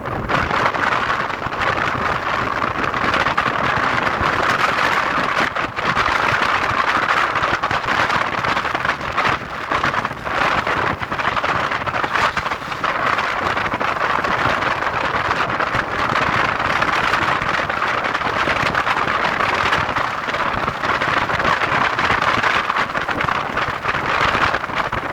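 Steady rushing hiss of heavy rain and wind.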